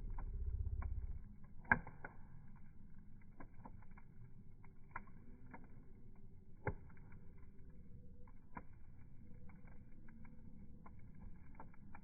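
Bonfire crackling: scattered sharp cracks and pops over a faint steady rumble, with the loudest crack about two seconds in.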